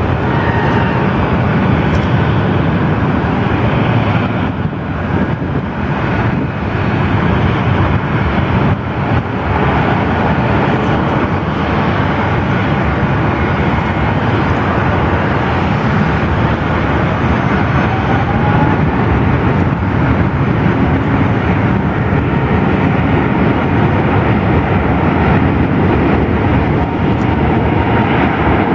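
Jet engines of a Korean Air Airbus A380 running, a loud, steady noise with faint tones on top.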